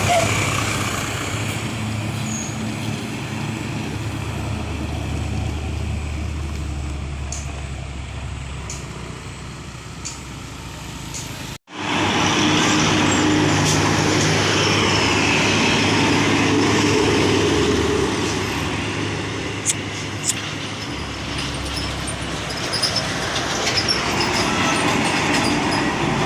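Heavy diesel trucks' engines running with road noise. Just before halfway the sound cuts out abruptly, then comes back louder. Two short clicks sound a few seconds later.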